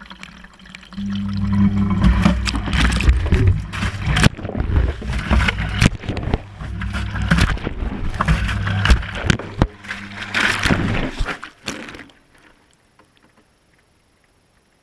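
Whirlpool Indiana 1400 washing machine heard from inside its drum: the drum turns with a steady motor hum, water sloshing and scattered knocks. It all stops about twelve seconds in.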